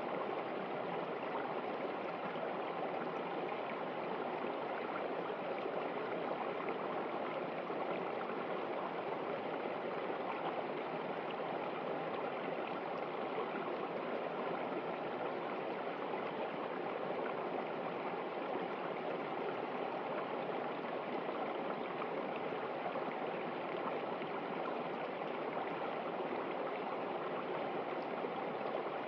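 A river running steadily, an even rushing of water with no breaks.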